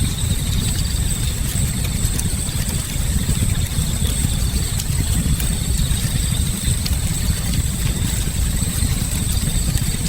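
Campfire burning, with scattered small crackles and pops over a steady low rumble, and a faint steady high-pitched tone above it.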